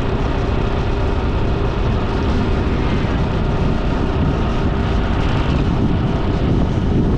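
Motorcycle riding on the road: the engine and the rushing air and road noise make a loud, steady drone.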